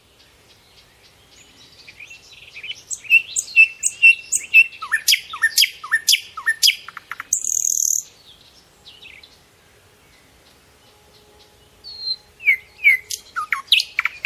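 Songbird singing: a quick run of short clear notes, then repeated whistles sweeping sharply downward, a harsh buzzy call about seven seconds in, a lull, and a few more falling notes near the end.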